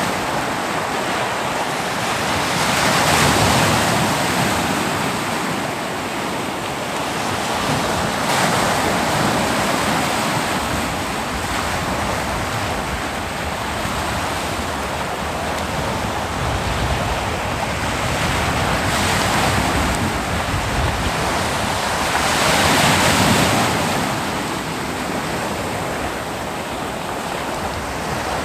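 Ocean waves breaking and washing on a beach, a steady rush of surf that swells every few seconds as each wave comes in, with some wind on the microphone.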